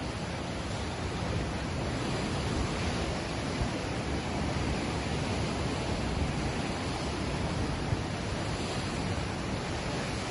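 Ocean waves breaking and washing on the shore: a steady rushing surf that swells gently, without a clear single wave crash.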